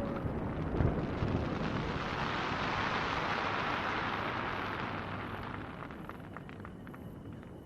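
Aerial firework display after a burst: a rumbling, crackling hiss with a thump about a second in. The sound swells around the middle and then fades away.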